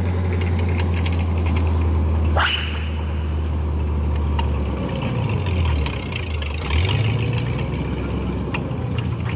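A large engine running steadily with a low hum, its speed dipping and picking up again between about five and seven seconds in. A sharp click is heard about two and a half seconds in.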